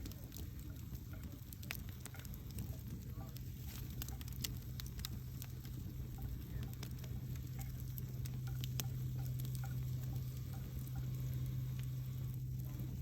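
Wood campfire crackling, with sharp pops a few times a second scattered over a soft hiss, and a steady low hum underneath.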